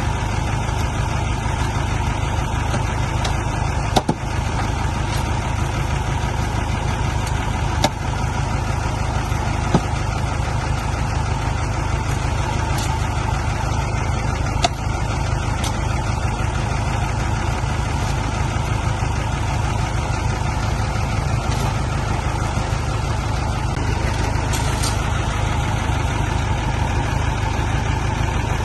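Heavy diesel vehicle engine running steadily at a low, even speed, with a few sharp clicks or knocks scattered through.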